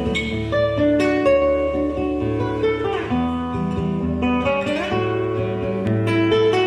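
Instrumental music on a plucked string instrument, acoustic-guitar-like: a melody of plucked notes over sustained chords.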